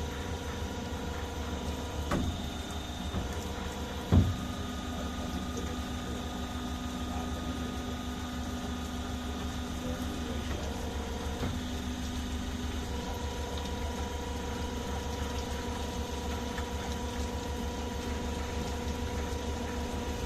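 Indo Tech CNC bundle cutting machine running: a steady motor hum with a whine whose pitch shifts a few times as it works, and two sharp knocks early on, the second the loudest.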